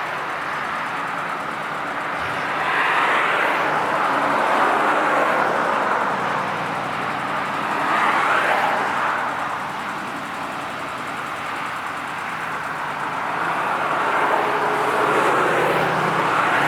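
Car engines running and revving as cars drive past, swelling and fading about three times.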